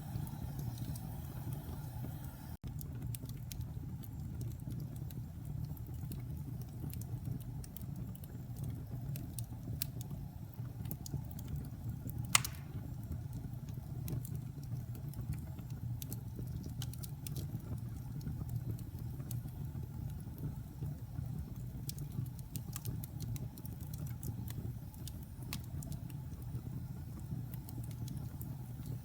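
Wood fire burning in a fireplace: a steady low rumble of flames with scattered small crackles, and one louder pop about 12 seconds in.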